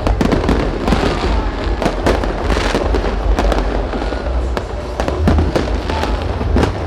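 Fireworks going off in rapid succession: many sharp bangs and crackles over a dense, continuous rumble.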